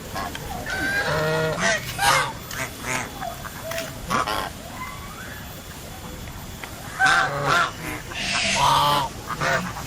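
Domestic geese honking in a flock: a run of calls about a second in, quieter calls after it, and another loud run from about seven to nine and a half seconds.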